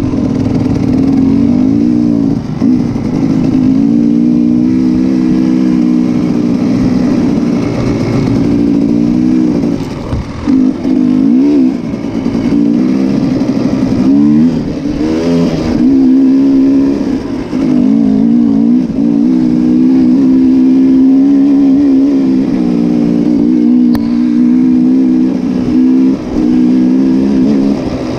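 Motocross motorcycle engines running loud, their pitch rising and falling as they are throttled up and eased off, with a few brief drops in loudness.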